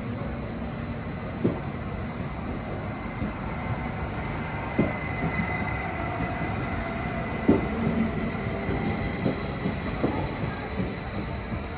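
Regional Express train running: a steady rumble with a thin, steady high whine, broken by a few irregular sharp knocks.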